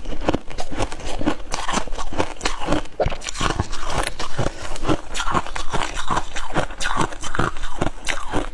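Close-miked biting and chewing of crispy freezer frost, a dense run of sharp, crackly crunches with several loud bites a second.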